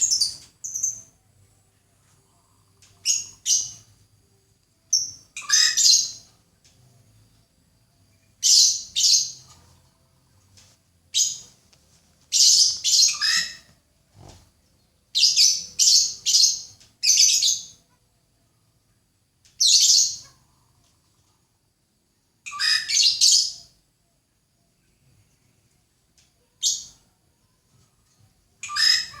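A songbird chirping in short bursts of rapid, high notes, about a dozen phrases separated by pauses of a second or more.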